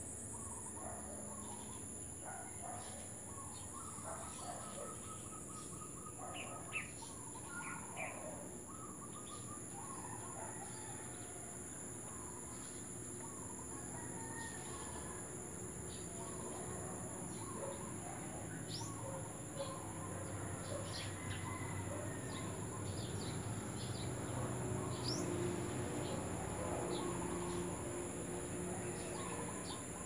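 Several birds chirping and whistling in garden trees, with short calls overlapping throughout and a quick trill of repeated notes about three seconds in. A low rumble grows louder in the second half.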